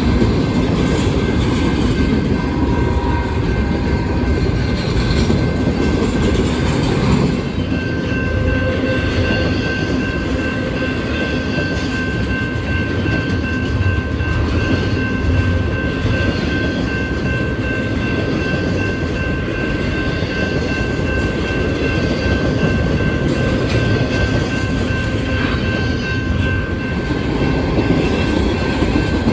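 Freight train rolling past with a steady, loud rumble of wheels on rail and some clickety-clack. A thin, steady high tone joins about a quarter of the way through and holds.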